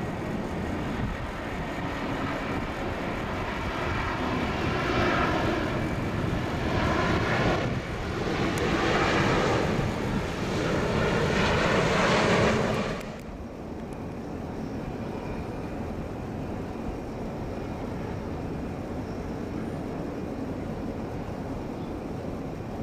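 Jet airliner engines passing close by, their whooshing noise swelling over several seconds and cutting off abruptly a little past halfway. A steadier, quieter low rumble follows.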